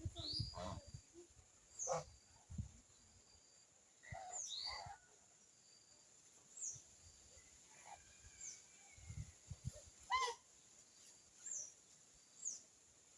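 Small wild birds giving short, high chirps that slide down in pitch, one every second or two, with a few dull low thuds among them.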